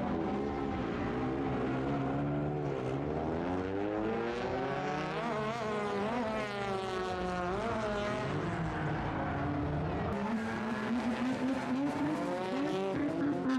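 Drift car engine revving hard, its pitch climbing and falling again and again as the throttle is worked.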